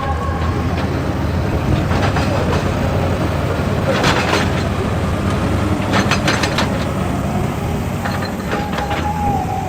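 Excavator's diesel engine running steadily under load, with clattering knocks about every two seconds, as of rock and metal striking, and a steady whine that comes in near the end.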